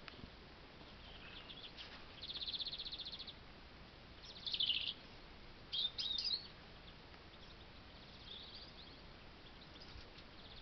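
A European robin singing: short, high, separate phrases, one of them a fast, even trill about two seconds in, followed by a few brief bursts.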